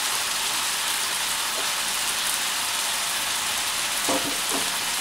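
Pork and tomato pieces sizzling steadily in a nonstick frying pan over medium heat.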